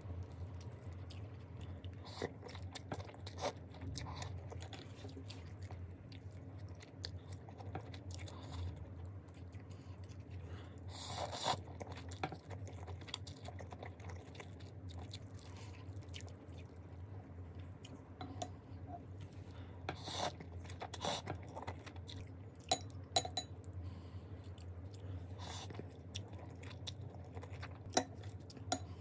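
A person chewing mouthfuls of spicy instant fried noodles with corn, with scattered short clicks and crunches.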